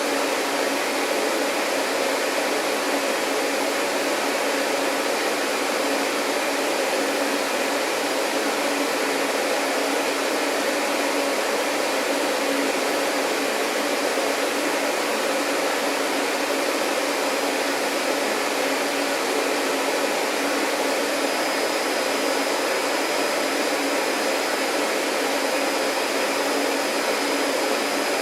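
Vacuum cleaner running steadily with an even rushing hum. A faint high whine joins in about three quarters of the way through.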